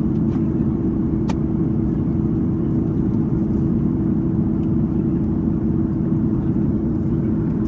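Steady drone of an Airbus A330 airliner cabin in flight: engine and airflow noise with a constant hum, and a single click about a second in.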